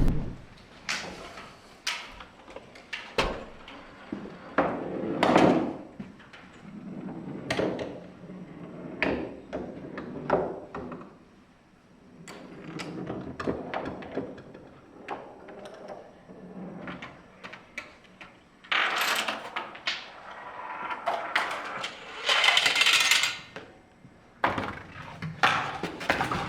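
A homemade Rube Goldberg chain-reaction machine running: a string of separate clicks, knocks and clatters of small wooden and plastic parts and marbles, with two longer rushing stretches late on.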